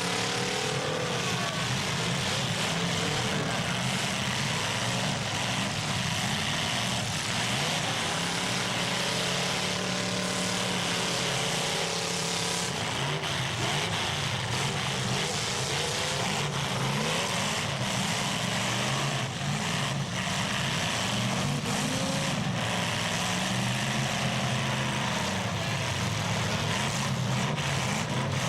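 Several car engines in a demolition derby revving at once, their pitches rising and falling against each other over a constant din, with a few sharp knocks of metal on metal.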